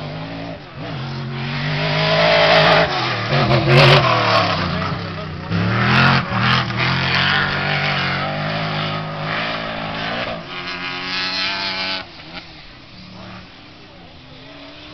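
Off-road race trucks' engines revving hard as they pass at speed, the pitch rising and falling. It is loudest about two to four seconds in and again around six seconds, and drops away sharply about twelve seconds in.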